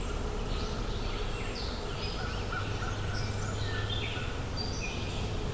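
Outdoor birdsong ambience: songbirds giving short, repeated falling chirps and song phrases, about one or two a second, over a steady low background rumble.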